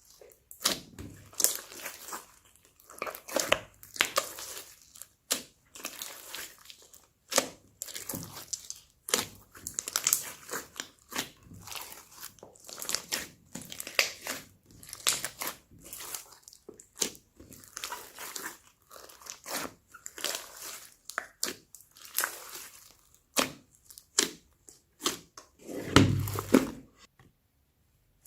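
Slime being kneaded and mixed by hand, with a dense run of irregular sticky pops, clicks and crackles. A fuller, lower squelch comes near the end.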